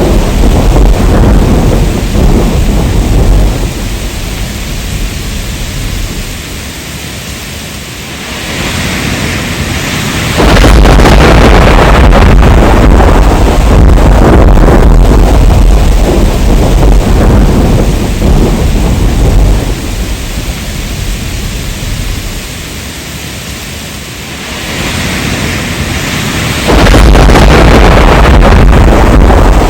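Heavy rain with rolling thunder: a loud, deep rumble under the rain that twice dies down into a quieter spell of rain, then comes back suddenly, once about ten seconds in and again near the end.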